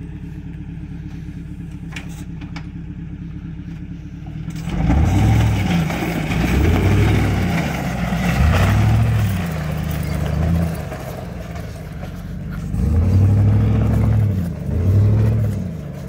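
Vehicle engine idling steadily, then from about five seconds in revving up and falling back about six times as a plow-equipped SUV pushes snow. A rushing noise runs under the first few revs.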